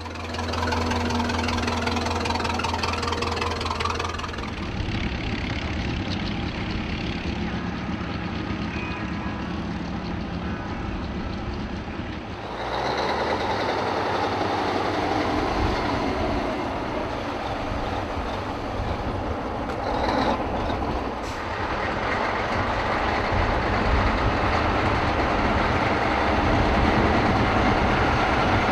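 Heavy truck engines running as trucks move slowly, with the mix of engine sound changing abruptly twice.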